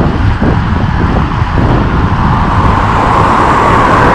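Wind rushing over a bicycle-mounted action camera's microphone with road noise while cycling along a road, and a motor vehicle's noise growing louder in the second half.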